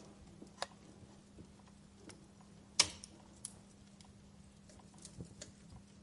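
Wood fire crackling: scattered sharp pops and snaps over a low steady hiss, the loudest pop a little under three seconds in.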